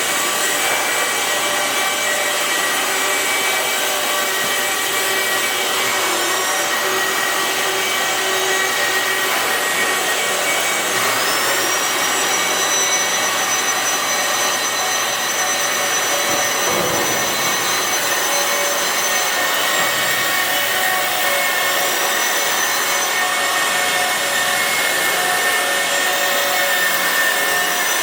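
Electric chain hoists running, lifting a steel H-beam: a steady motor whine with several tones, some coming in partway through, that stops right at the end.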